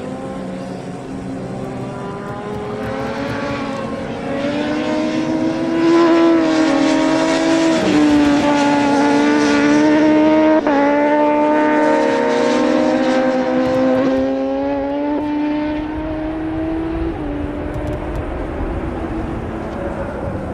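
Several racing motorcycles at high revs, their engine notes overlapping, growing louder to a peak near the middle and fading toward the end as they go by.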